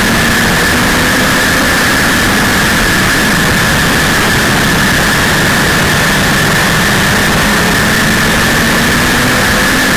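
1932 Ford Super Modified's 300 cubic-inch straight-six running hard at racing speed, heard on board over heavy wind and road noise. Its pitch rises and eases slightly, with a steady high whine throughout.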